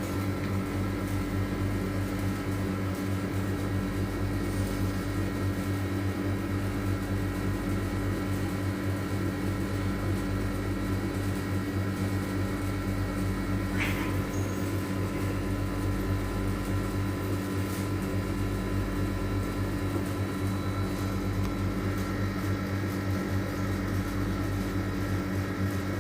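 A steady low mechanical hum, with one brief higher-pitched sound about halfway through.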